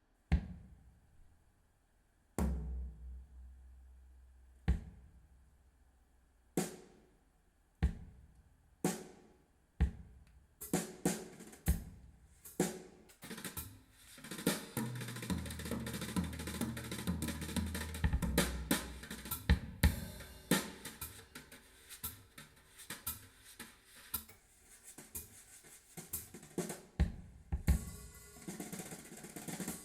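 Drum-and-percussion test track played through car component speakers and heard in the cabin. It opens with single drum strikes a second or two apart, each ringing out, then from about a third of the way in becomes a busy kit pattern with hi-hat and cymbals over low bass notes.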